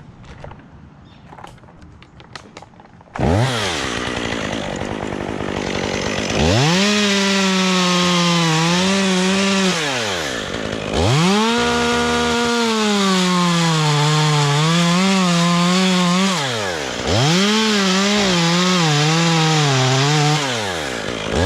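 Two-stroke chainsaw starts up about three seconds in and is opened to full throttle, cutting wood with its engine pitch sagging and wavering under load. The throttle is let off and the revs fall and climb again twice.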